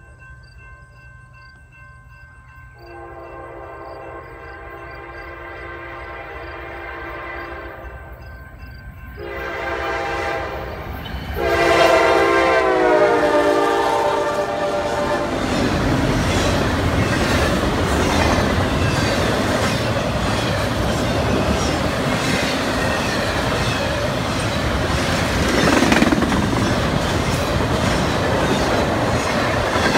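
CSX freight locomotive horn sounding a grade-crossing warning, growing louder: a long blast, a short one, then a final blast that drops in pitch as the locomotive goes by. Then the intermodal container cars roll past with loud steady rail noise and the clickety-clack of wheels over the rail joints.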